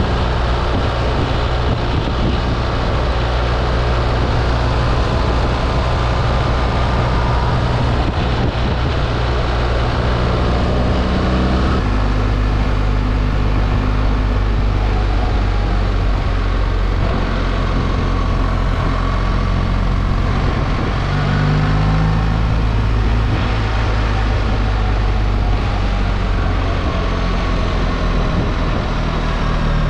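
BMW R 1300 GS motorcycle's boxer-twin engine running at a steady road speed, with wind and road noise. The engine note changes about twelve seconds in and rises briefly about twenty seconds in.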